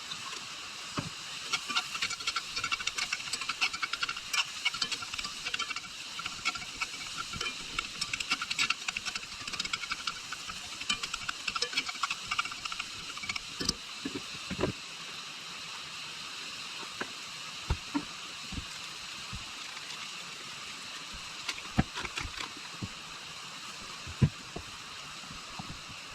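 Food sizzling and crackling in a frying pan over a steady hiss, the pops densest in the first half and thinning out later, with a few sharp knocks of a utensil or pan.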